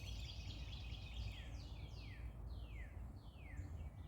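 A songbird singing: a chattering trill that gives way, about a second in, to a run of about six quick falling whistled notes. A steady low rumble runs underneath.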